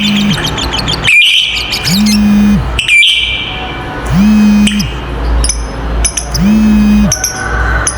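Lovebird chattering calls in short bursts, with higher chirps later, over background music whose low note repeats about every two seconds.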